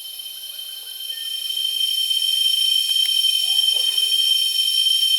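Rainforest insect chorus: a steady, high-pitched shrilling held on several pitches at once, swelling louder about a second or two in.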